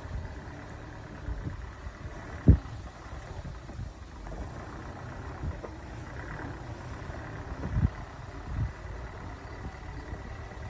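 Heavy truck engine running with a steady low rumble, broken by a few sharp thumps, the loudest about two and a half seconds in and two more near the end.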